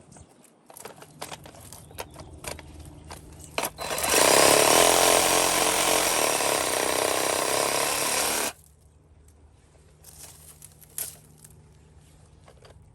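Black+Decker 20V MAX cordless reciprocating saw running steadily for about four and a half seconds, starting about four seconds in and stopping abruptly. Light clicks and handling noises come before and after.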